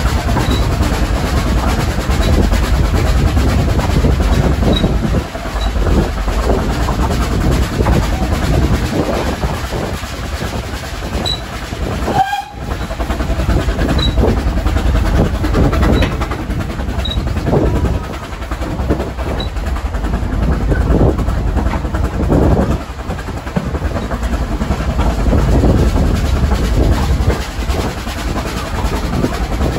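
Narrow-gauge steam train climbing the Vale of Rheidol line, heard from a carriage: a steady rumble and clatter of wheels on the track. A brief high tone sounds about twelve seconds in.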